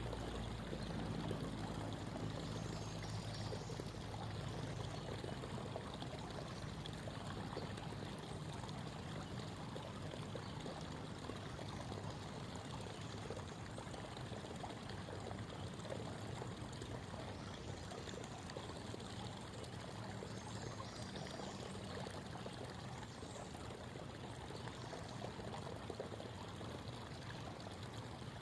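Creek water babbling and trickling steadily, with a low hum underneath that fades away over the first several seconds.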